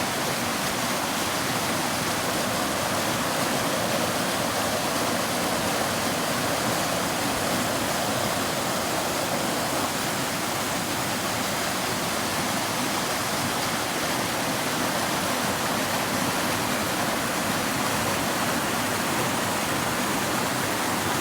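A stream rushing steadily over rocks: an even wash of flowing water that does not change.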